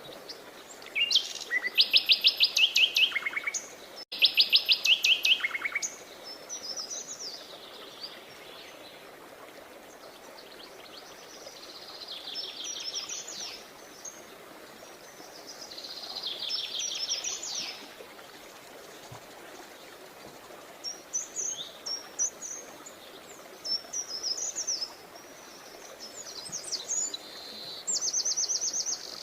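Songbirds singing. Two loud, rapid trills come in the first few seconds, quieter trills follow, and short high chirping phrases run through the second half, over a faint steady background hiss.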